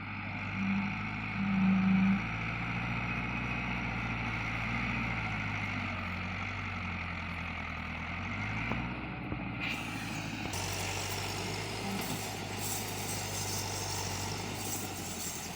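Tractor diesel engine running steadily. Two short, louder higher tones sound about one and two seconds in.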